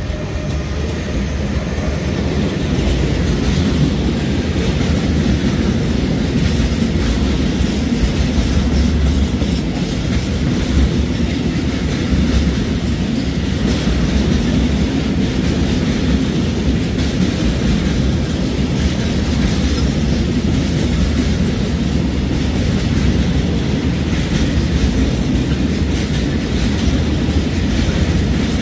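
Freight train passing: the wagons roll by with a steady rumble and the wheels click over the rail joints. It grows louder over the first few seconds, then holds steady.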